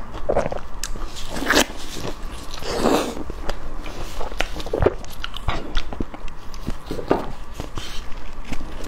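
Close-miked biting and chewing of grilled eggplant, irregular soft mouth sounds with scattered clicks.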